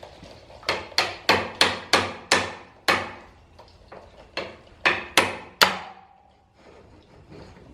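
Hammer blows driving a stuck front axle out of a motorcycle's fork: seven quick strikes, a pause, then three more, the last leaving a short metallic ring.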